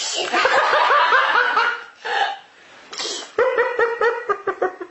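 A person laughing in two bouts of quick, high-pitched ha-ha pulses, with a breathy intake between the bouts.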